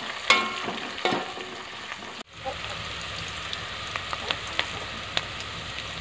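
Sliced onions sizzling in hot oil in an aluminium pot, with a steel spoon clanking against the pot twice in the first second as they are stirred. The sound drops out for an instant a little over two seconds in, then the sizzle goes on with scattered small pops.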